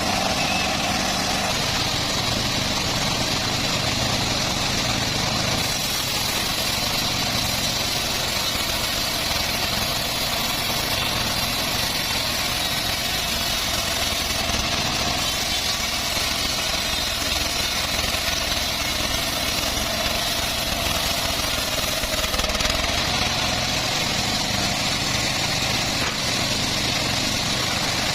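Homemade engine-driven bandsaw sawmill running steadily, a constant machine drone with a thin high whine over it.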